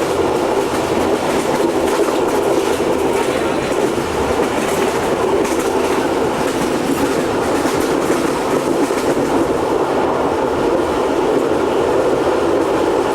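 Passenger train running steadily along the track, a continuous rumble and rattle of the wheels on the rails and the coaches heard from on board.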